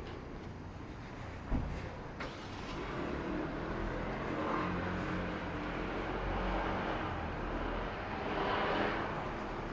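Street traffic: a car driving past, growing louder and loudest near the end, over a steady low rumble. A short knock about a second and a half in.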